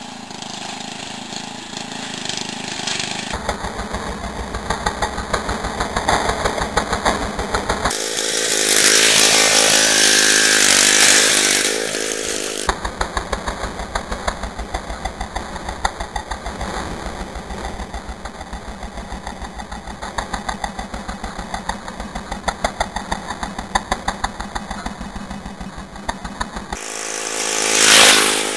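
Small off-road vehicle engines running with a steady pulsing beat, across several cut-together clips. About a third of the way in, and again near the end, a machine passes close and is much louder for a few seconds.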